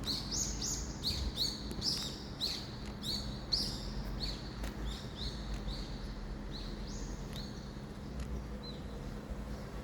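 A small bird chirping repeatedly in short high notes, about two or three a second, growing sparser near the end.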